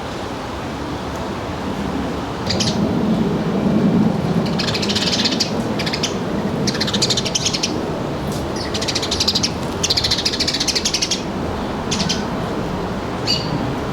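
Small birds chirping in a run of short, rapid, buzzy bursts, over a steady low background rumble.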